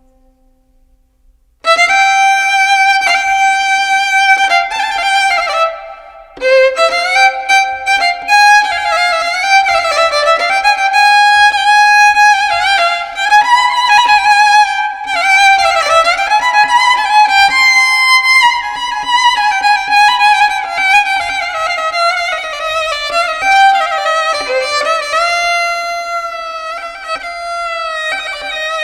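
Background music: a solo violin melody, starting about a second and a half in, with a short break just before six seconds.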